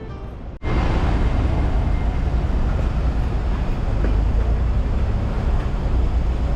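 Steady low rumble and noise of a moving vehicle, heard from on board, cutting in suddenly about half a second in after the end of a song.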